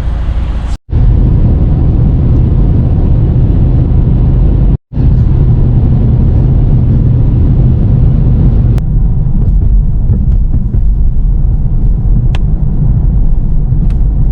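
Steady, loud low rumble of a car driving, with road and engine noise. It is broken twice by brief dropouts, about a second in and about five seconds in.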